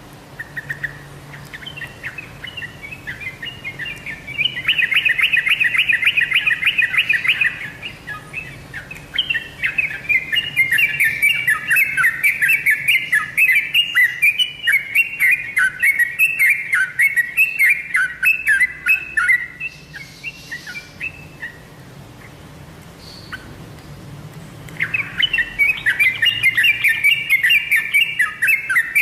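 Yellow-vented bulbul singing a fast, bubbling run of chattering notes, which breaks off for a few seconds near the end and then starts again.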